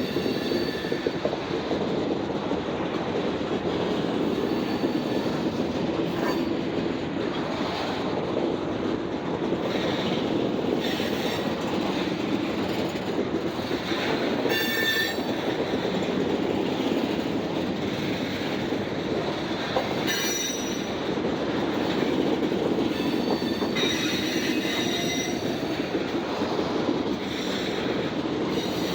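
Freight train cars rolling steadily past on the rails, with brief high-pitched wheel squeals breaking in every few seconds.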